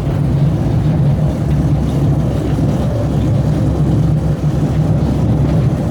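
Open-air tourist rail cart running along the track: a steady low engine and wheel rumble.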